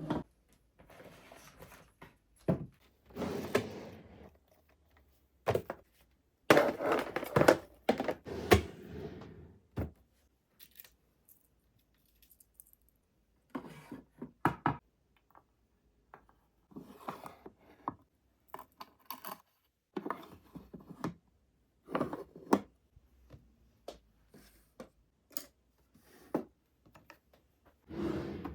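Scattered knocks, clicks and clatters of household objects being handled and set down, with rustling between and short quiet gaps.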